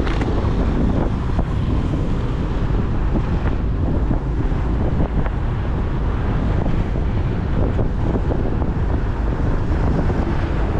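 Steady wind buffeting the microphone of a moving motorcycle, with the bike's engine and road noise underneath.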